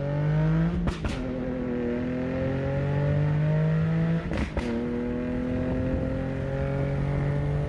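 A 2009 Infiniti G37S with a 3.7-litre V6, resonated test pipes and a 370Z Nismo exhaust, accelerating. The engine pitch climbs steadily and is broken twice, about a second in and again about four and a half seconds in, by short cracks as it shifts up a gear.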